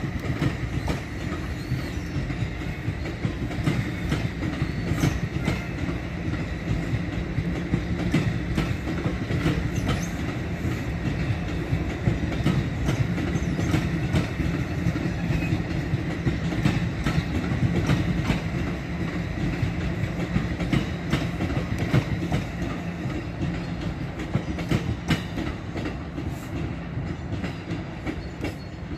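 NJ Transit double-deck MultiLevel commuter coaches rolling past at speed, a steady rumble with wheels clicking over the rail joints, fading a little near the end as the last cars pull away.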